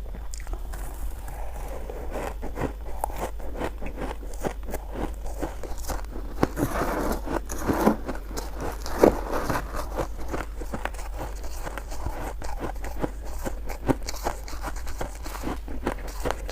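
Close-up crunching and chewing of frozen purple crystal shaved ice: a dense run of quick crackling crunches, with a few louder bites near the middle.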